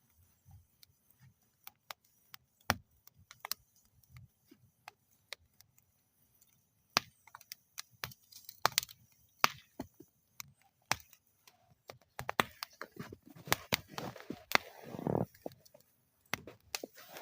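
Campfire burning in a metal fire bowl, crackling with irregular sharp pops. The pops come sparsely at first and grow busier in the second half, with a brief louder hiss near the end.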